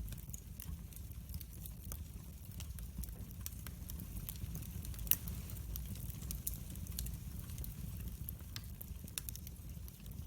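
Wood fire burning in a fireplace, with a steady low rumble of the flames and irregular sharp crackles and pops, one louder pop about halfway through.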